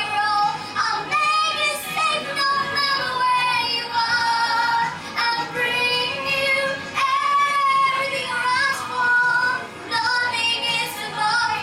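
A young girl singing a melody with long held notes over instrumental accompaniment.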